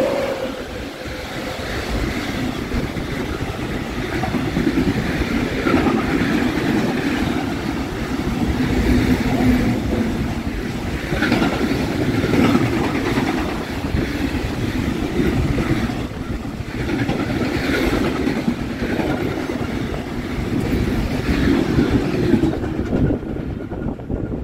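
Container freight train hauled by a DR class 243 (DB 143) electric locomotive running through a station: the locomotive passes at the very start, then the wagons rumble and clatter steadily on the rails. The sound thins out in the last two seconds as the end of the train passes.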